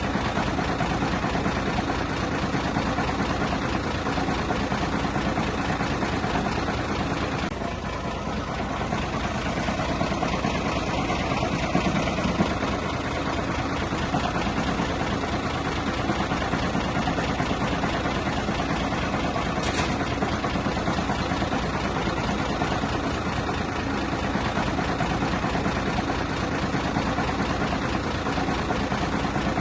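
Heavy-equipment diesel engine running steadily, with a fast even throb.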